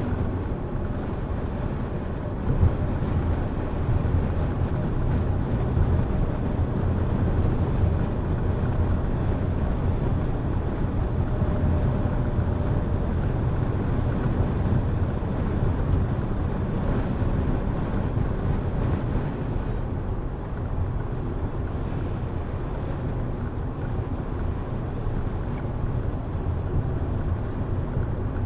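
A car driving on an open road: a steady low rumble of engine and tyre noise.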